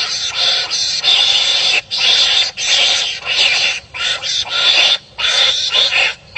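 Wild animals calling back and forth in a rapid series of harsh, raspy barks, each a fraction of a second to about a second long, with short breaks between them that come more often in the second half.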